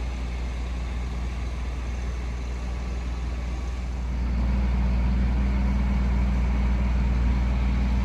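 Steady low engine rumble, growing louder about four seconds in.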